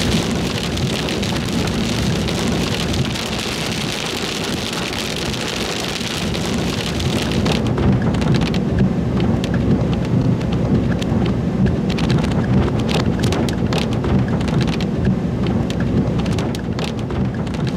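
Rain drumming on a storm chasers' vehicle, over a steady low rumble. A high, even hiss fades about seven and a half seconds in, leaving separate drops tapping.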